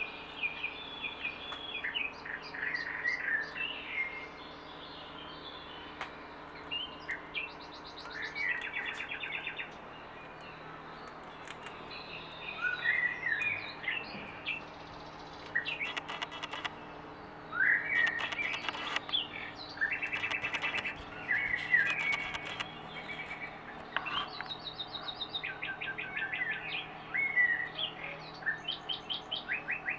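A small songbird singing: a run of varied chirps, rising sweeps and rapid buzzy trills, some phrases repeated in quick pulses, over a steady low hum.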